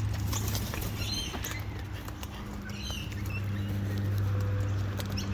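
Birds pecking and scratching around on the ground: scattered light taps and clicks with a few faint short chirps, over a steady low hum.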